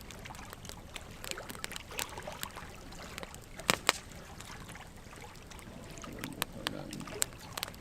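Wood fire of burning logs crackling: irregular sharp snaps and pops over a low steady hiss of flame. Two louder pops come close together a little under four seconds in.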